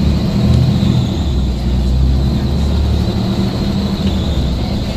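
Scania coach's diesel engine running steadily, a loud low drone with a faint constant high whine above it.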